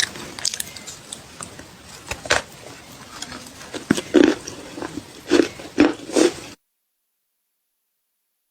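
A person biting and chewing crunchy clay: scattered sharp crunches, a run of louder bites about four to six seconds in, then the sound cuts off to dead silence about six and a half seconds in.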